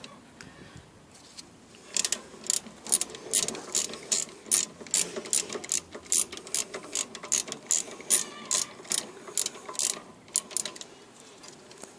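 Socket ratchet clicking in quick, even strokes, about three clicks a second, as a 14 mm socket unscrews the top bolt of a rear brake caliper. It starts about two seconds in and stops shortly before the end.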